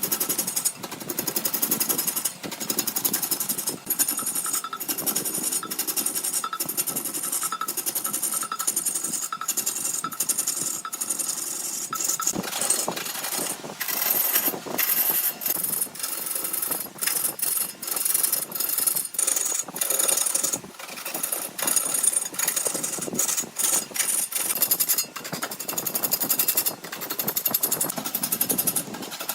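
Wood lathe with a turning tool cutting into the spinning wood, a loud, fast, chattering rattle that stops and starts again many times as the tool is lifted and put back.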